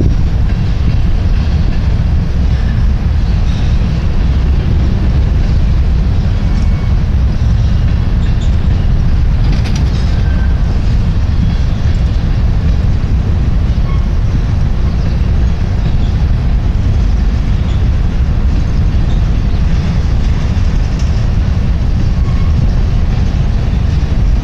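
CSX grain train's covered hopper cars rolling past: a steady, heavy low rumble of steel wheels on rail.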